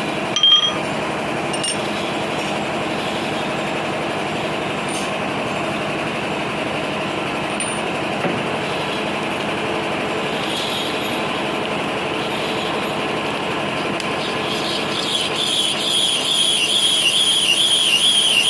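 Machine tool running steadily in a workshop, a continuous even mechanical noise. From about three-quarters of the way in, a wavering high-pitched squeal rises over it.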